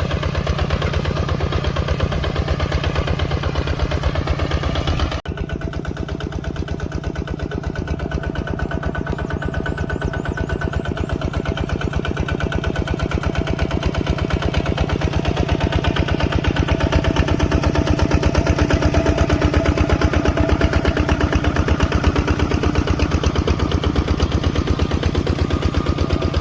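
ZT155 PRO tractor engine running steadily with a rapid, even beat, working while plowing. The sound breaks off and resumes abruptly about five seconds in, then grows a little louder toward the second half.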